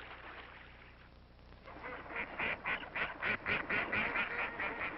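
Waterfowl calling: a rapid run of honking calls, about five a second and quickening, starting about two seconds in.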